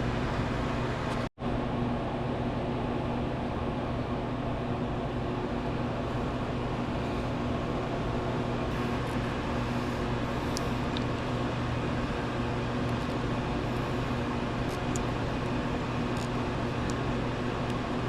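Steady mechanical hum, like a fan or air-conditioning unit running, with a few faint small clicks in the second half. It drops out for an instant just over a second in.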